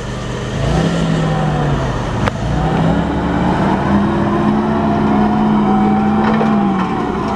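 Cat GLP40 forklift's engine running and revving: its pitch climbs, holds for a few seconds, then drops near the end. A sharp click about two seconds in.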